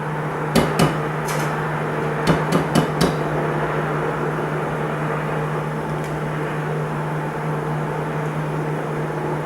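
About six sharp knocks in the kitchen: two at the start, then four in quick succession around two to three seconds in. A steady electric motor hum runs underneath throughout.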